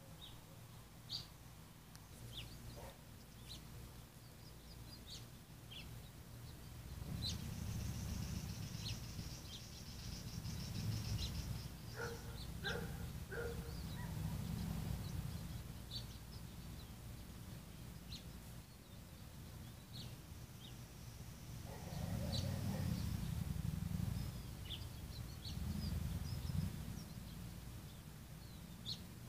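Small birds chirping now and then, short high notes scattered throughout. A low rumble swells twice, about a quarter of the way in and again in the last third, and is the loudest thing heard.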